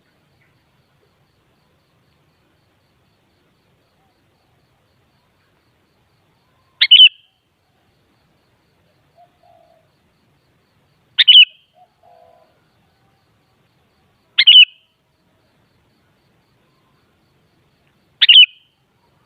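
Sooty-headed bulbul calling: four short, high, loud notes a few seconds apart, with quiet gaps between.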